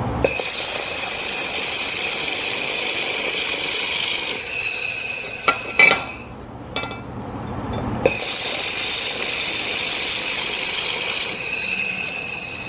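Handheld laser welder firing on thin 2 mm steel pipe with filler rod: two runs of steady hiss with high whining tones, each starting and stopping abruptly. The first lasts about six seconds and the second starts about eight seconds in.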